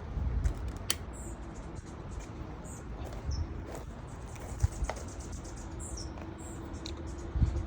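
Repeated short, high chirps, like small birds, over a low rumble of wind on the microphone, with a few sharp clicks and knocks.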